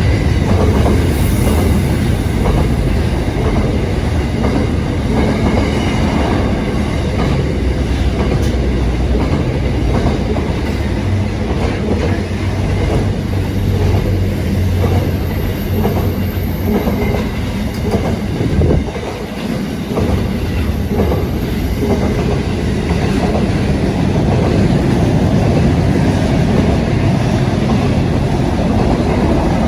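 A train running on the rails: a loud, steady low rumble of wheels and track, with a short dip about two-thirds of the way through.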